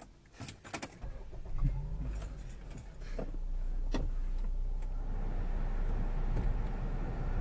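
A Honda car starting: a few sharp clicks of the key, then the engine catches about a second in and keeps running. A louder, steady rush joins at about three seconds.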